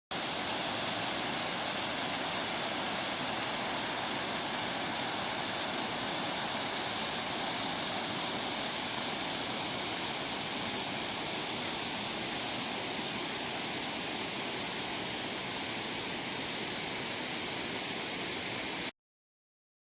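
Waterfall rushing: a steady, even roar of falling water that cuts off suddenly near the end.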